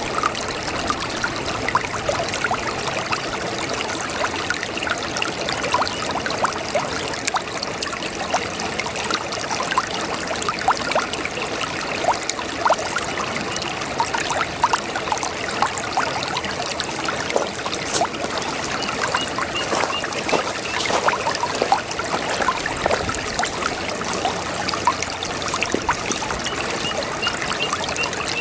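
Small brook babbling: steady running water with many quick gurgles and splashes.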